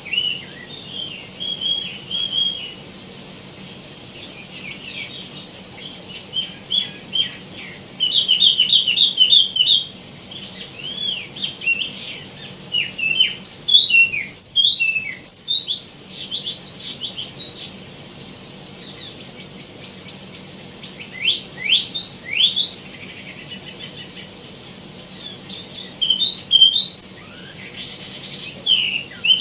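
Wambi mini (tieumi) songbird singing a varied, fill-packed song: bursts of quick high chirps and whistled notes in phrases with short pauses. A fast run of repeated chirps comes about eight seconds in, and clusters of quick sweeping notes come mid-way and again past twenty seconds.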